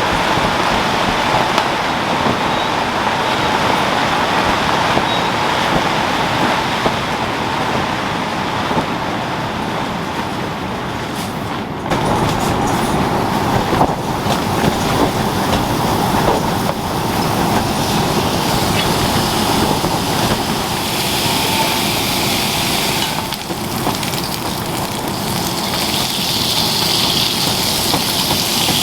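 Steady rain falling as a continuous even hiss, with sudden shifts in its character about twelve and twenty-three seconds in.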